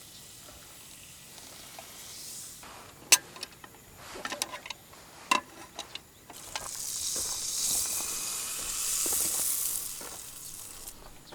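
Food sizzling on a hot pan, a strong hiss that swells for about four seconds and then fades, after a few sharp metal clicks and clatter of cooking gear.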